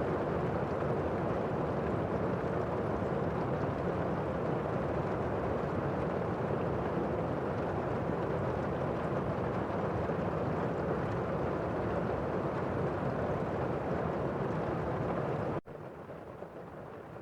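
Steady heavy rain, a dense even rush with no separate drops standing out, which cuts suddenly to a softer rain near the end.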